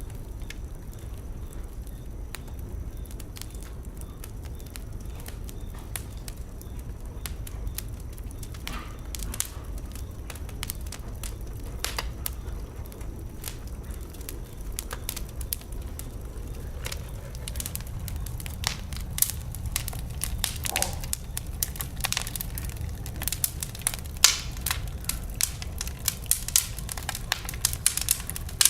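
Fire burning in a fireplace: a steady low rumble with scattered sharp crackles and pops, which grow denser and louder about two-thirds of the way through.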